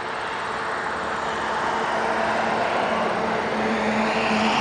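Steady rush of jet airliner engines, slowly growing louder, with a low hum coming up near the end.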